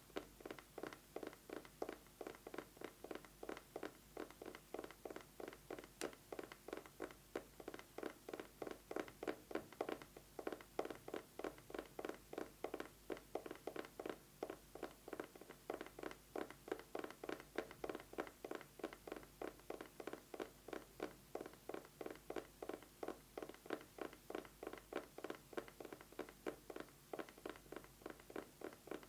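Fast, continuous fingernail tapping on an eyeglasses case: a steady stream of rapid, even taps.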